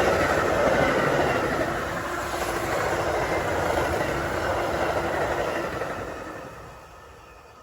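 Outbound commuter train passing through the station without stopping, its wheels running over the rails, then fading away as it recedes about six seconds in.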